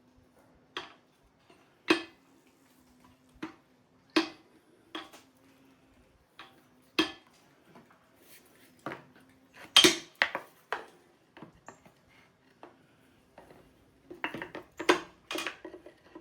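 Hand tools striking and clinking on a bare engine block and its parts while pistons and connecting rods are knocked out during teardown: irregular sharp metallic knocks, several in quick succession near the end, over a faint steady hum.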